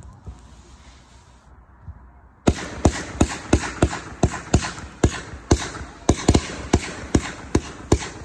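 A consumer firework cake begins firing about two and a half seconds in: a fast string of sharp launch thumps, roughly three a second, with a hiss between the shots.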